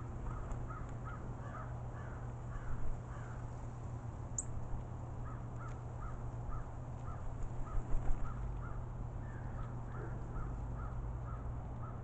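A bird calling in runs of short, evenly spaced notes, about three a second, with a pause of about two seconds partway through, over a steady low hum.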